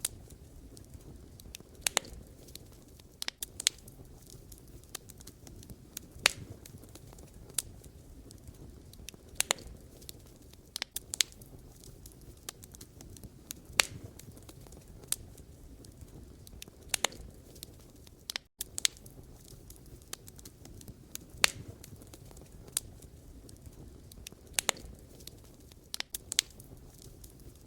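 Campfire of burning firewood crackling: irregular sharp pops and snaps over a steady low rumble and hiss of the flames. The sound cuts out for a moment about two-thirds of the way through.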